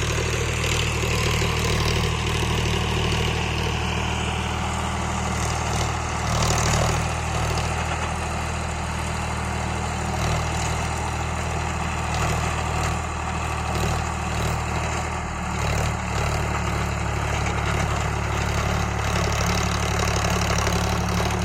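Sonalika Sikander tractor's diesel engine running steadily at a constant speed, with a slight swell about six seconds in.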